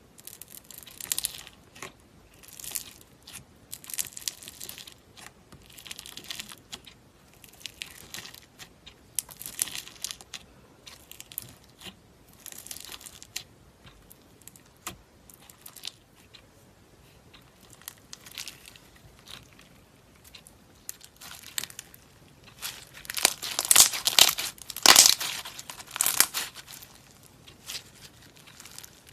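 Slime being worked by hand, a series of short crisp squishes and crackles roughly once a second. They come louder and closer together for a few seconds near the end.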